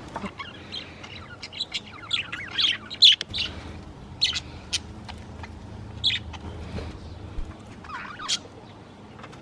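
Budgies chirping and warbling, a rapid scatter of short high chirps with several birds calling over one another.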